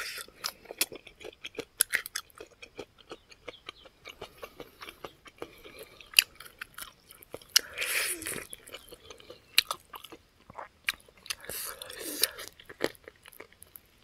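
Close-up mouth sounds of eating fried pig feet by hand: chewing and biting on the skin and bone, with many small wet clicks and smacks and two longer, louder stretches about eight and twelve seconds in.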